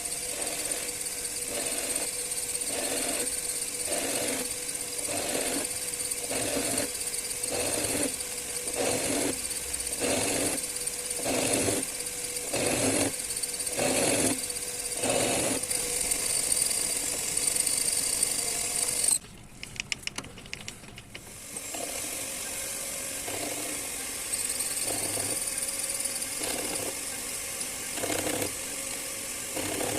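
Small metal lathe running with a steady whine and an even pulsing a little more than once a second. It cuts off abruptly about two-thirds of the way through, with a few clicks, then runs again with a weaker pulse.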